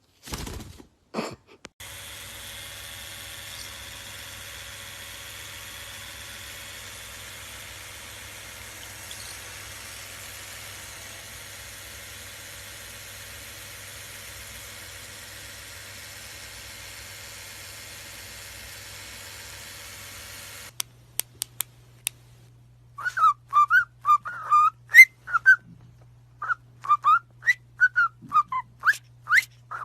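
A steady faint hiss with a low hum, then, from about twenty-three seconds in, a parrot whistling a run of short, loud whistles that swoop up and down in pitch.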